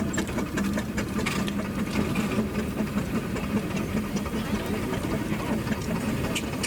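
An engine running steadily, with a rapid, even mechanical clatter over a constant low hum and scattered small clicks.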